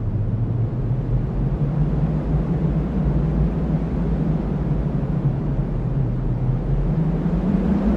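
Steady, low-pitched rush of strong cyclone wind, with a deeper tone in it that rises a little near the end.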